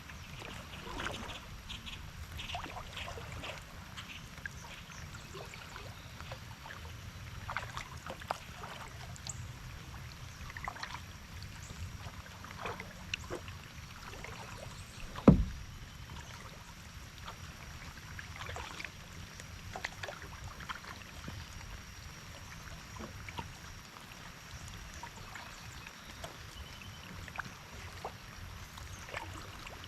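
Kayak being paddled: scattered water drips and small splashes off the paddle and hull in light rain, with one loud sharp knock about halfway through.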